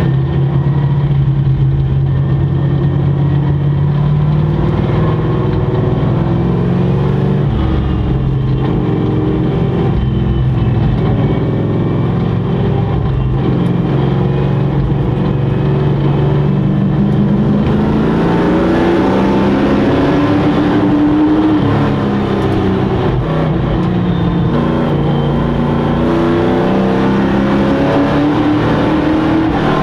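Several sport truck race engines running together on a short oval track, their pitch rising and falling as they accelerate and lift through the laps. From about two-thirds of the way in, the revs swing wider and more engines are heard at once.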